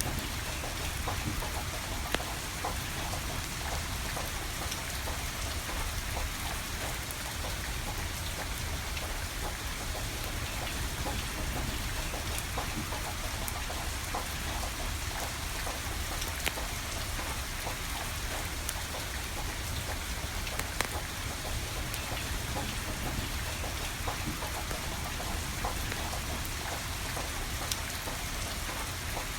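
Steady rain falling, with a wood fire crackling through it and a few sharper pops.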